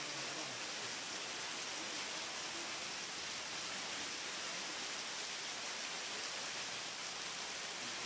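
Heavy rain falling: a steady, dense hiss.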